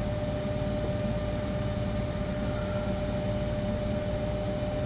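CNC lathe running a G83 peck-drilling cycle in the air in front of the part, with the drill not cutting: a steady machine hum with a constant whine over a low rumble.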